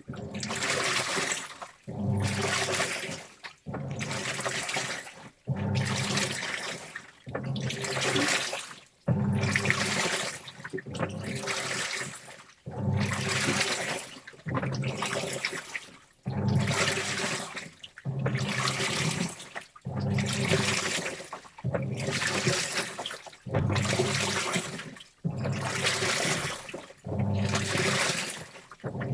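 Washing machine in its wash cycle, turning the load in short strokes about every one and a half seconds. Each stroke brings a motor hum and water and wet clothes sloshing, with a brief pause between strokes.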